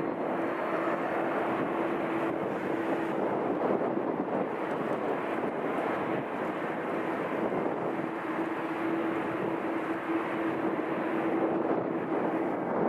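Airliner jet engines running, a steady rushing noise with a low hum held through it.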